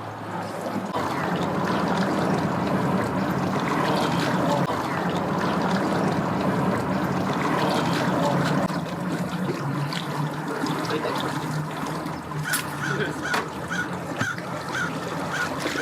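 An engine running steadily at low speed, with water trickling and splashing.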